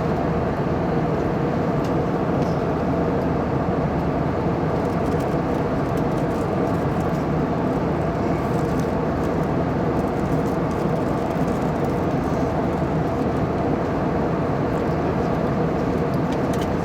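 Steady drone of an airliner's jet engines and rushing airflow heard from inside the passenger cabin, even and unbroken, with a few faint steady tones in it.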